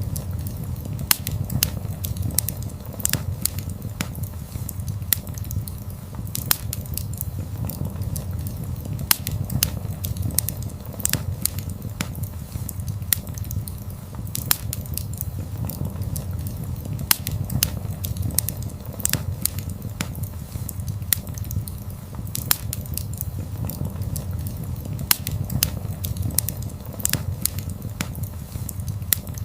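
Wood fire burning, with a steady low rumble under frequent sharp crackles and pops.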